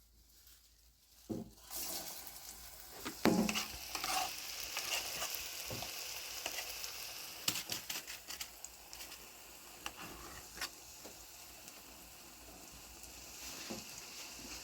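Food frying and sizzling in a hot pan while being stirred, with small clicks throughout. The sizzling starts about two seconds in, and there are a couple of sharp knocks near the start.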